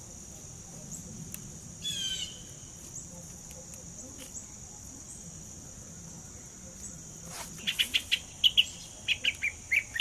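Small birds chirping in a quick run of short, sharp notes through the last couple of seconds, with a single brief call about two seconds in. A steady high-pitched insect drone runs underneath.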